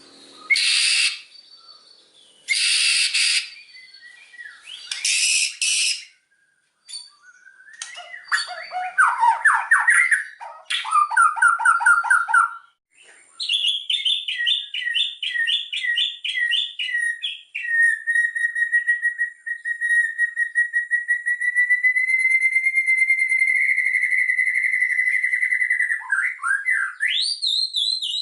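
White-rumped shama (murai batu) singing: three short rasping calls, then varied song phrases and fast trills, then a long, even trill held near one pitch for about eight seconds, ending in a rising sweep.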